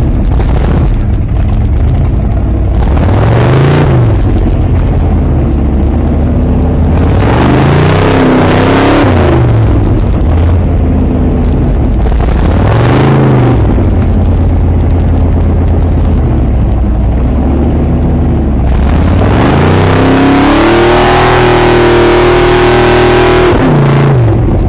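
High-horsepower snow truck engines revving hard, pitch rising and falling several times, then held high for about four seconds near the end.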